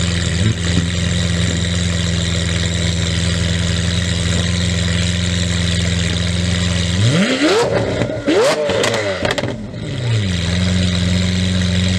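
Lamborghini Aventador's V12 idling steadily, then blipped hard several times in quick succession about seven seconds in, with a few sharp cracks, before the revs fall back to idle near ten seconds.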